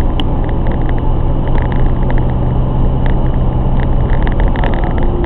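BMW E30's M50B20 2.0-litre inline-six running under way, with road noise. A steady engine tone holds and then fades about four seconds in.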